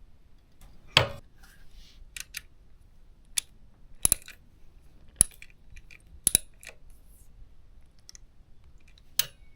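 Metal parts and hand tools clinking and tapping in a series of sharp, separate clicks, with a louder clank about a second in.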